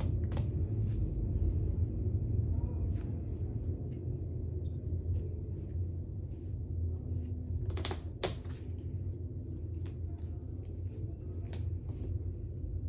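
Steady low room hum with scattered light taps of trading cards being handled and set down on a table, the sharpest pair of taps about eight seconds in.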